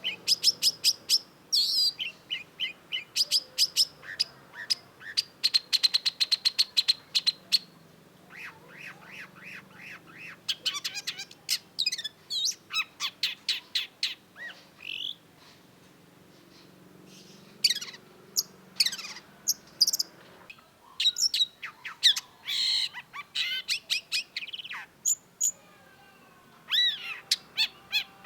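Long-tailed shrike singing: fast runs of short, sharp, high chirps and quick trilled notes in bursts, broken by brief pauses.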